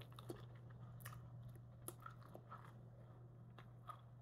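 Faint chewing of a mouthful of hamburger, heard as soft scattered mouth clicks over a low steady hum.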